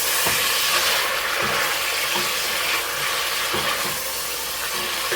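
Chicken breast pieces sizzling in hot coconut oil in a frying pan, a steady hiss.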